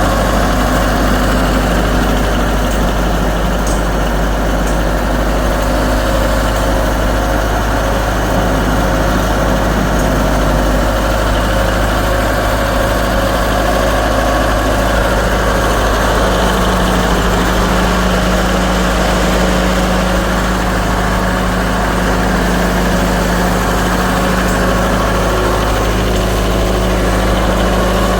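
Massey Ferguson tractor's engine idling steadily, its note firming up a little about halfway through.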